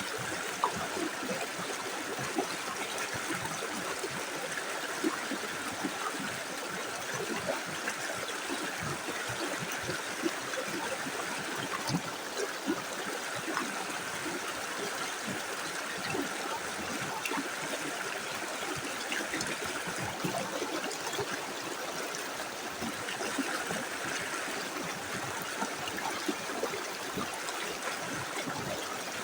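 A small river flowing steadily over stones, with a continuous rush and many small gurgles and splashes.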